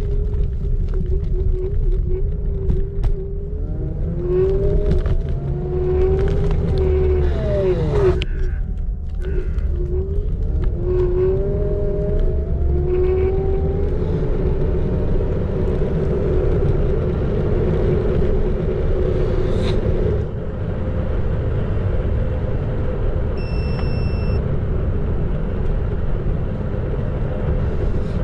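Xiaomi Electric Scooter 4 Pro on the move: the electric motor's whine rises and falls in pitch with speed over a low rumble of wind and tyres. The whine drops away about eight seconds in as the scooter slows, then climbs again.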